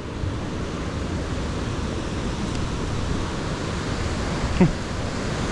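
Water rushing over a waterfall: a steady, even noise. About four and a half seconds in comes one brief, short sound.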